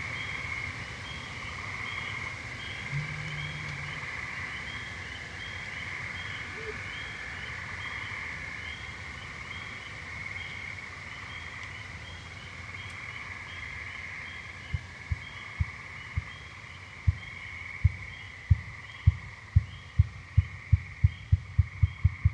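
Ruffed grouse drumming: deep low thumps starting about two-thirds of the way in, slow at first and speeding up into a rapid flutter near the end. Under it runs a steady evening chorus of frogs and birds.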